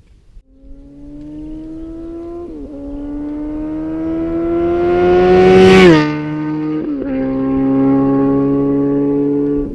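Honda CB1000R's inline-four engine, fitted with a Yoshimura R-77 Race exhaust, accelerating hard up through the gears. The pitch climbs in each gear and dips briefly at each shift, about four times. The bike is loudest just before the sixth second, where its note falls sharply as it passes close by.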